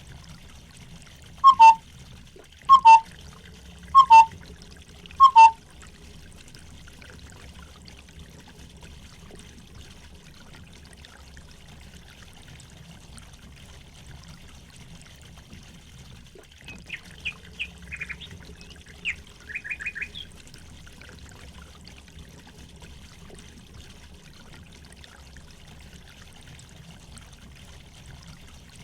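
Water trickling steadily, with a bird giving a loud two-note call four times at even spacing in the first few seconds. Fainter, quick high chirps from a small bird come around the middle.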